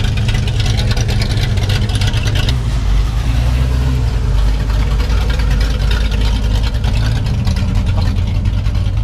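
Car engine running at a steady idle with a deep, loud exhaust rumble and no revving.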